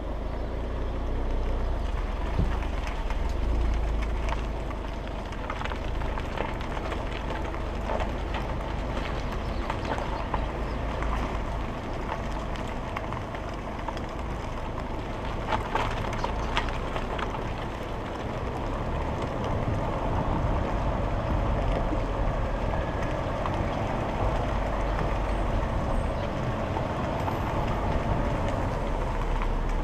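Stock 2010 Alfa Romeo Giulietta Quadrifoglio Verde on the move, its 1750 turbocharged four-cylinder running under a steady low rumble of engine and road noise, with a few brief knocks about halfway through.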